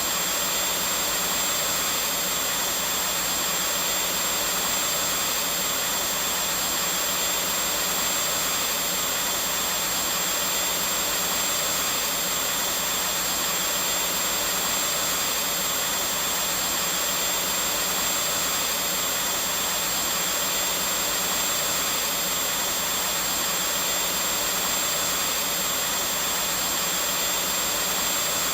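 Vacuum cleaner running continuously, a steady airy rush with a faint high whine from its motor, unchanging throughout.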